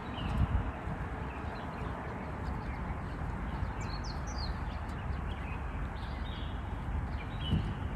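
Small birds chirping in short, quick high notes over a steady outdoor background hiss and a low rumble.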